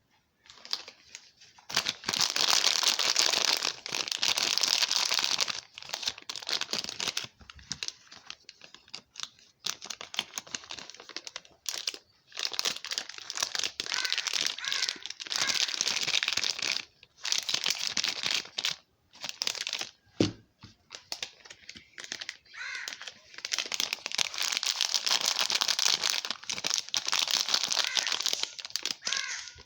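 Soap packaging being unwrapped: repeated spells of crinkling and tearing wrapper, with short pauses between them and a single soft thud about two-thirds of the way through.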